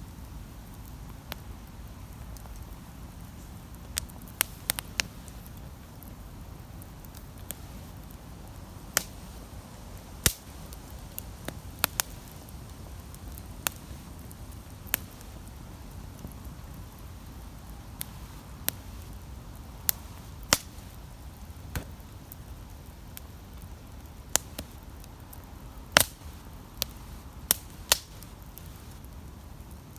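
Wood campfire crackling: sharp pops at irregular intervals, roughly one every second or so, over a low steady rumble.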